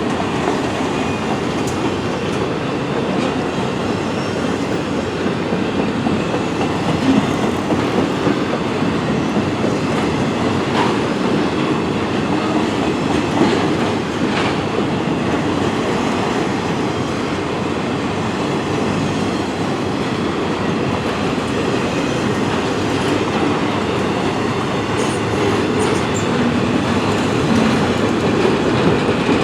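Freight cars of a long CN train rolling past: a steady rumble of wheels on rail with scattered sharp clicks.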